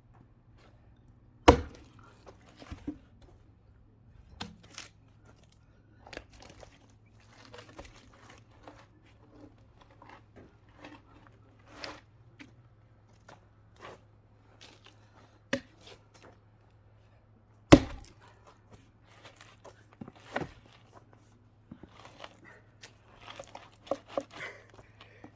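Axe chopping into a log to split it for firewood: a handful of hard strikes spaced seconds apart, the loudest about two thirds of the way through, with lighter knocks and clatter of wood between them.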